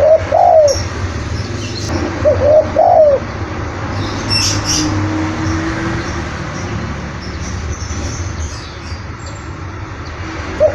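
Spotted dove cooing: two short coo phrases in the first three seconds, each a quick run of rising and falling notes, over a steady low background rumble. A brief high chirp comes about four and a half seconds in.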